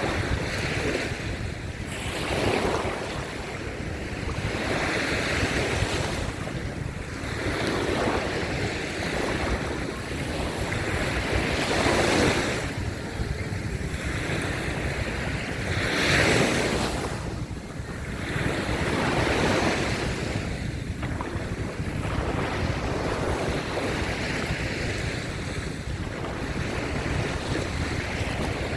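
Small waves breaking and washing up a sandy beach, the surf swelling and falling back every few seconds. Wind rumbles on the microphone throughout.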